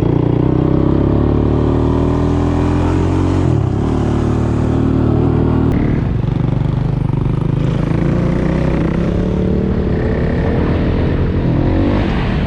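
Off-road motorcycle or quad engine running hard under way, its pitch rising and dropping several times with throttle and gear changes.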